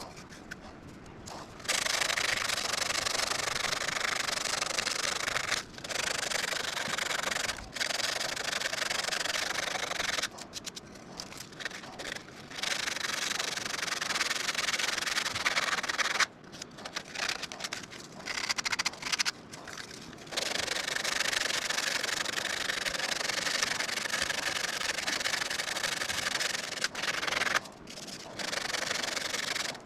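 A 3-inch power sanding disc grinding into mesquite wood, shaping the bowl in long passes that break off briefly several times and start again.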